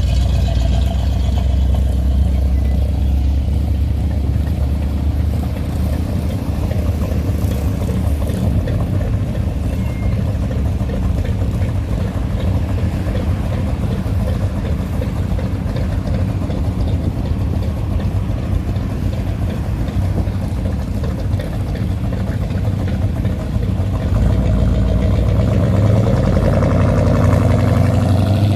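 Hot rod and classic car engines running at low speed as cars drive off one after another, a steady low engine sound throughout. It grows louder near the end as another car comes close.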